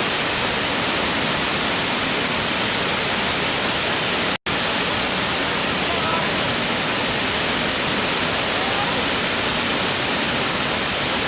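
Water of a natural waterfall rushing steadily, a dense even hiss, broken by a split-second dropout to silence about four and a half seconds in.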